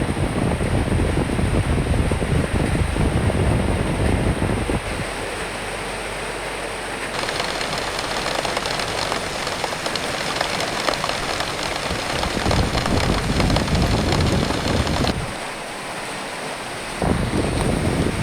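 Rain falling with gusting wind: a steady hiss of rain over a low wind rumble that swells and eases. The low rumble drops away for a couple of seconds near the end, then returns.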